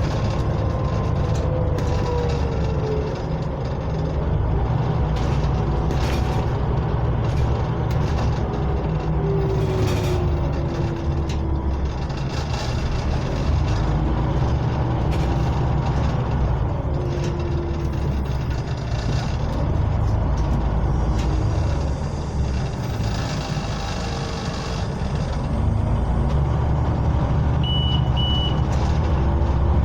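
Inside a moving Scania OmniCity double-decker bus: a steady deep drivetrain rumble with rattles from the body and a whine that slides down in pitch as the bus changes speed. Two short high beeps sound near the end.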